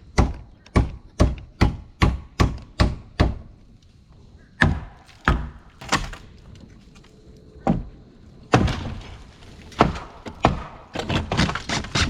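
Hammer blows on wood: a steady run of about nine strikes, two to three a second, then a few scattered blows and a quicker flurry of strikes near the end, typical of nailing roof framing.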